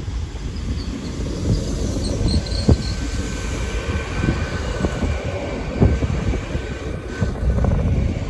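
GWR Hitachi bi-mode express train passing through a station. Wheels rumble on the rails with a stream of clicks and knocks as the bogies go by, and a faint steady whine sounds in the middle of the pass.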